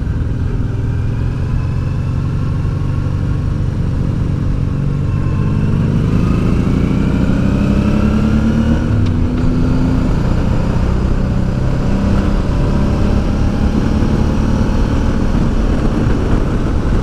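Honda Deauville's V-twin engine under way, rising steadily in pitch for several seconds through the middle as the bike accelerates, then holding a steady cruise. Wind rushes loudly over the helmet microphone throughout.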